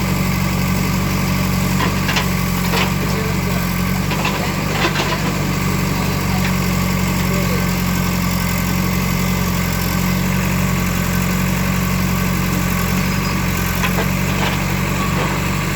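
Engine of heavy demolition machinery running steadily at an even speed, with a few light knocks and clatters scattered through it.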